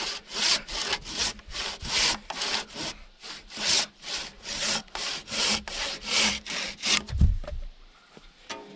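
Handsaw cutting through a wooden log with quick back-and-forth strokes, about three a second. The strokes stop after about seven seconds with a heavy low thud, followed by a sharp knock near the end.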